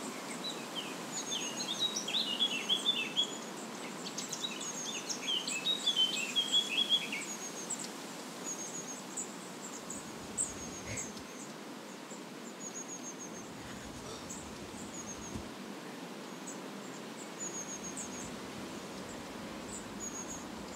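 Garden birds chirping and singing over a steady outdoor hiss. Lively runs of chirps come in the first several seconds, followed by sparser, thin, high chirps.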